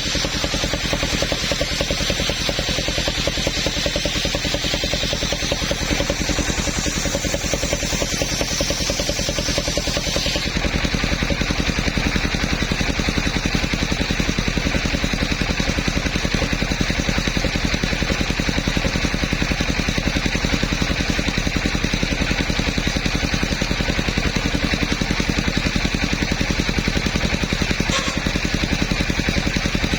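Engine of a portable sawmill running steadily with a fast, even beat and some clatter; about ten seconds in the sound changes abruptly, its high hiss dropping away, and it carries on.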